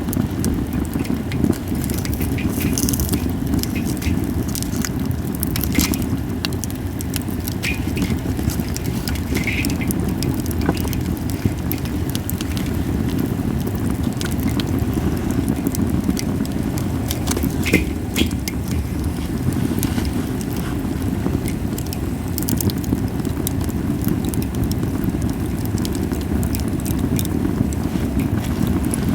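Japanese cedar burning in a campfire, crackling with scattered sharp pops, a few louder ones about 6 and 18 seconds in, over a steady low rumble.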